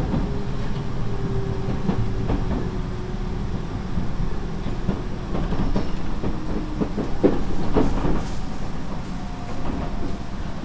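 Tobu 30000 series electric train running, heard from inside the car: a steady rumble with the wheels clicking over rail joints, a few sharp clicks about two-thirds of the way in, and a faint motor whine that slowly falls in pitch.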